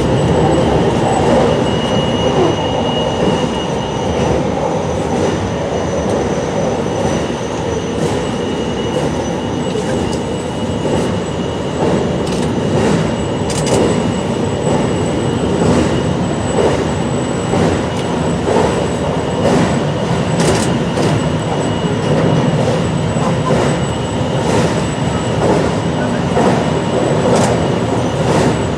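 JR Shikoku 8600 series electric train running at speed, heard from the front of the train: a steady rumble of wheels on rail with a thin, steady high whine and scattered clicks.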